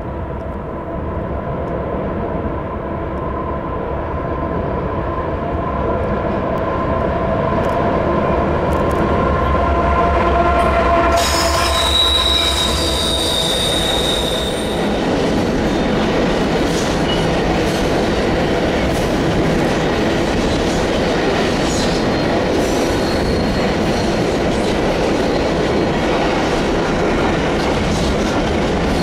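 CN grain train's diesel locomotives approaching, their engines droning steadily and growing louder. About eleven seconds in, a high wheel squeal rises for a few seconds. Then the covered hopper cars roll past with steady wheel-on-rail noise and short squeals from the wheels on the curve.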